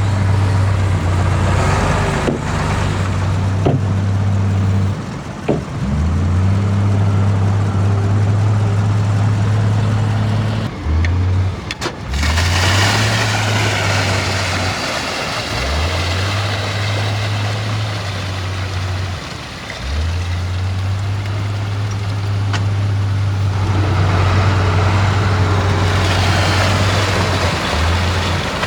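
Heavy diesel engine of earthmoving machinery running hard under load. Its deep note drops out briefly and climbs back up about five times as the throttle and load change.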